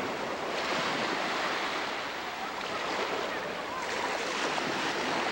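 Sea surf: waves breaking and washing in a steady rushing noise that swells about half a second in and again near four seconds.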